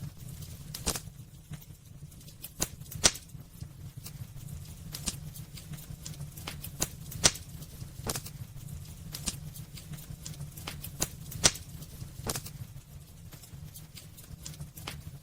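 Burning firewood crackling and popping at irregular intervals, with three sharper, louder pops, over a low steady rumble of the fire.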